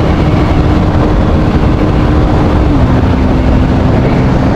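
Motorcycle engine of a Bajaj Pulsar NS200 running at a steady riding speed under heavy wind rush on the microphone. The engine note drops slightly about three seconds in.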